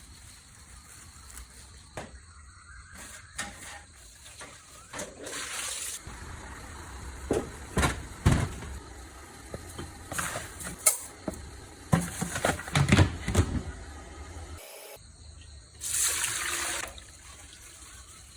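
Broom sweeping: irregular swishes with scattered knocks and taps, and a busier run of knocks in the middle.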